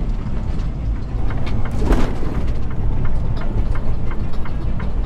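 Semi truck driving at highway speed, heard from inside the cab: a steady low engine and road rumble with scattered small clicks, and a brief louder rush about two seconds in.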